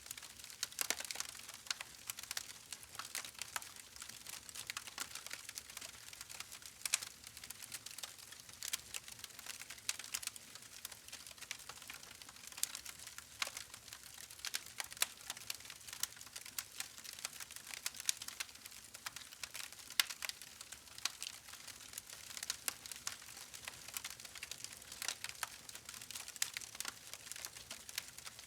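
Campfire crackling: wood burning with a steady stream of irregular pops and snaps over a faint hiss.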